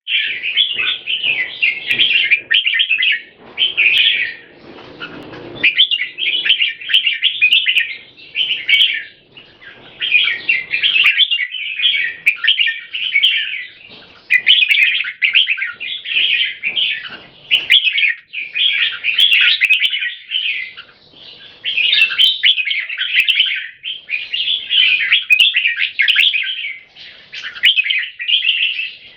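Two red-whiskered bulbuls singing against each other in quick, chattering phrases that follow one another with only brief gaps: a song contest of controlled aggression, each bird trying to dominate the other by singing as often as it can.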